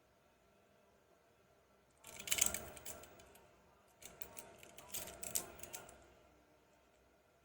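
Toy vehicles being handled, with two quick flurries of small clicks and rattles, the first about two seconds in and the second about four seconds in.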